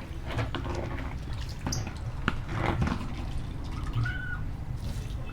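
Irregular scraping and knocking as the dirty floor of a cat cage is cleaned out, over a steady low hum, with a brief high call about four seconds in.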